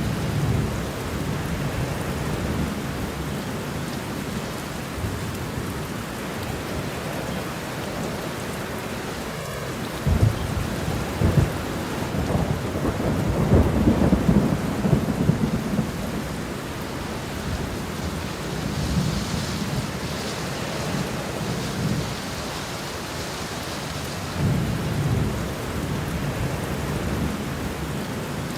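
Steady rain with thunder rumbling through it. There is a rumble right at the start, a longer and louder roll of thunder around the middle, and fainter rumbles near the end.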